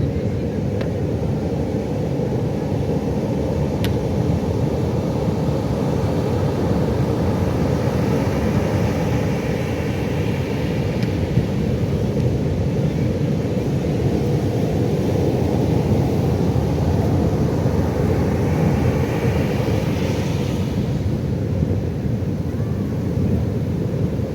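Ocean surf breaking on a beach: a steady low rumble, with the hiss of a wave washing in swelling from about three-quarters of the way through and stopping suddenly shortly after.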